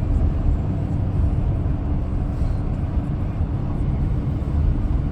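Steady road and engine rumble inside a moving vehicle's cabin, with a faint constant hum over it.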